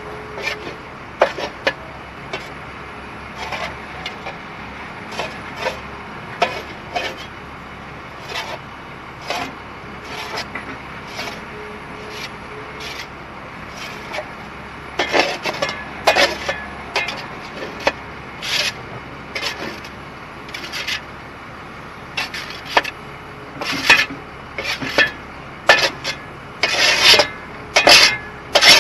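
Excavator demolishing an old wooden potato cellar: pole timbers cracking, snapping and scraping in a run of sharp, irregular cracks that come thicker and louder near the end, over the steady running of the excavator's diesel engine.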